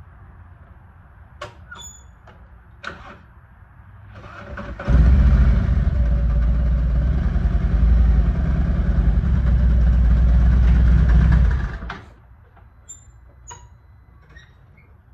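Motorcycle engine starting and running steadily for about seven seconds, then shut off suddenly, with a few light clicks before it.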